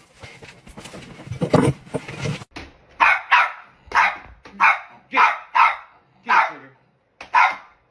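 A small dog barking in short, high-pitched yaps, about eight of them starting about three seconds in, some coming in quick pairs. Before the barking there is a jumble of indistinct noise.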